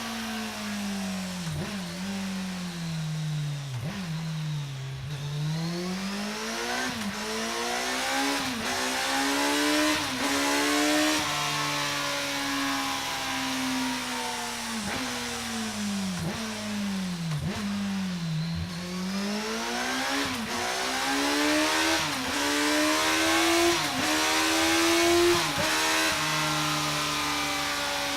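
Kawasaki Z1000's inline-four engine running through Delkevic tri-oval stainless steel silencers. The revs rise and fall in long, slow sweeps, with brief dips in pitch every second or so.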